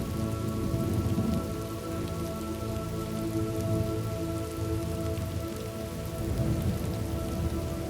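Steady rain falling, with low rolling thunder rumbling underneath and a soft, sustained ambient musical drone held on several steady tones.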